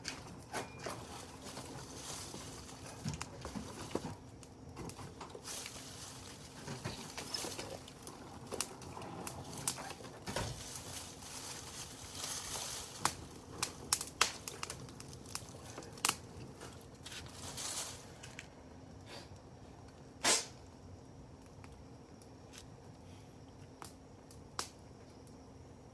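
Wood fire crackling, with irregular sharp pops and snaps; the loudest pop comes about twenty seconds in, and the crackling thins out toward the end.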